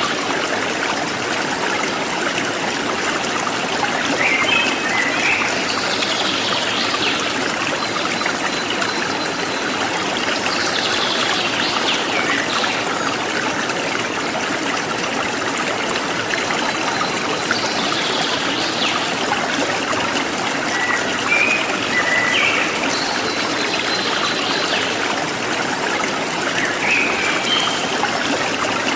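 Forest stream flowing steadily, with birds chirping briefly every few seconds over the water.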